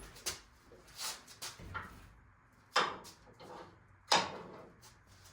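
Scattered knocks and clunks, with two loud sharp ones about three and four seconds in, as a truck's engine and transmission are worked free on an engine hoist while snagging on the exhaust manifold.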